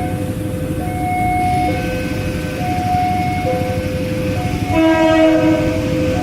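Train at a station, with a steady low engine rumble under long held horn tones that step between pitches, and a louder, fuller horn note about five seconds in.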